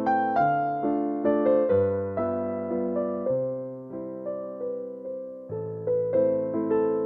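Slow, gentle instrumental keyboard music, piano-like: struck notes that ring and fade, a melody over low bass notes that change every second or so.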